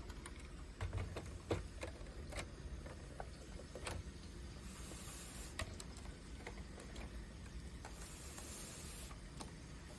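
Plastic Lego pieces being handled, with scattered light clicks and taps and a couple of soft rustles.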